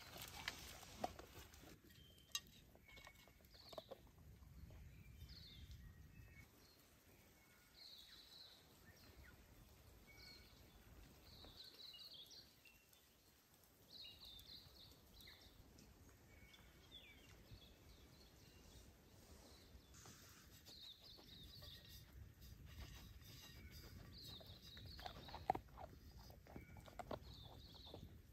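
Near silence in the bush, with faint short bird chirps repeating every second or two and a few soft clicks, one sharper click near the end.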